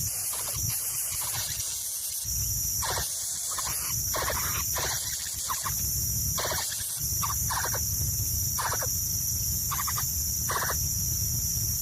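A series of short bird calls, about ten of them, each under half a second, over a steady high hiss. A low rumble comes in about two seconds in.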